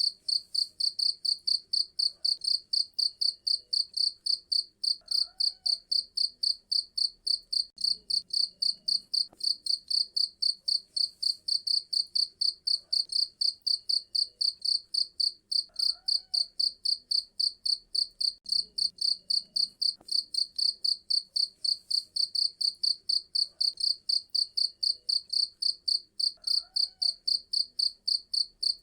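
Cricket chirping steadily: a high, shrill, evenly repeated pulse about four times a second.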